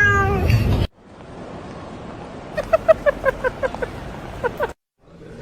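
A cat's meow trails off, then a quick run of about ten short chirps sounds over a steady background hiss.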